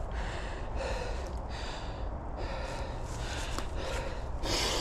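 A man breathing hard, catching his breath after mountain biking: quick, regular breaths in and out, the strongest one near the end.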